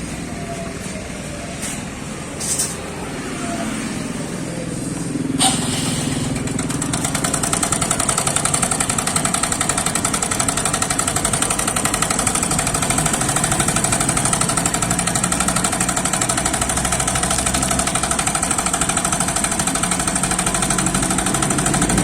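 TVS Star City Plus motorcycle's single-cylinder engine running. After a sharp click about five seconds in, it gets louder with a fast, steady metallic rattle. The mechanic puts the rattle down to the timing chain alone, not to the head.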